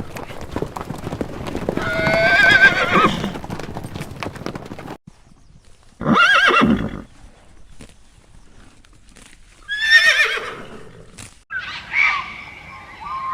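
Horse whinnying: a long quavering whinny about two seconds in over a clatter of hoof clicks, then shorter neighs around six and ten seconds. Near the end, different short gliding calls take over.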